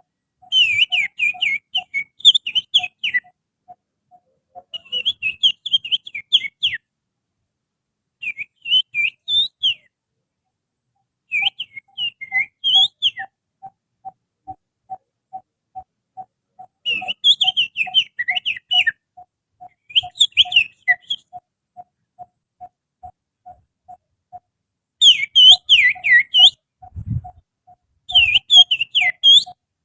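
Finger-whistled imitation of an Oriental magpie-robin's (kacer) song: bursts of quick, sweeping high whistled phrases a few seconds apart. Under it a low note repeats steadily, two or three times a second, and there is a low thump near the end.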